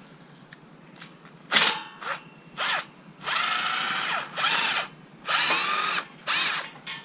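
Power drill-driver run in about seven short bursts, the longest about a second, its motor pitch rising and falling as it speeds up and slows, taking screws out to dismantle an appliance.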